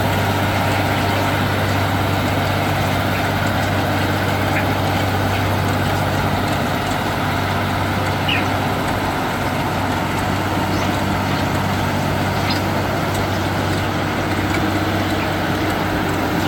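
Farm tractor engine running steadily at a constant pitch.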